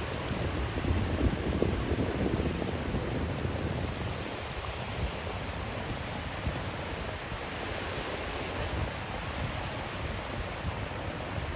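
Steady rushing white noise with a rumbling low end that swells and eases over the first few seconds, then stays even.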